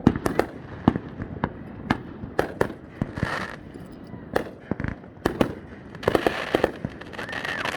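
Fireworks going off in a rapid, irregular string of bangs, with stretches of crackling about three seconds in and again from about six seconds.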